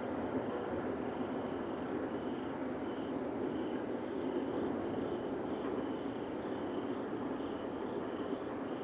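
Steady, rumbling roar of unidentified origin that seems to come from the sky. It stays even throughout, with a faint high chirping pulse repeating over it.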